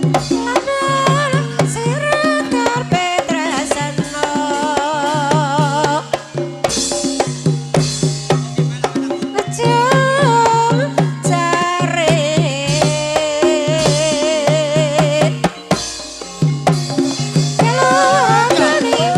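Banyumasan ebeg gamelan music: kendang hand drums beat a steady repeated pattern under a wavering, ornamented sung vocal line, with short breaks in the drumming twice.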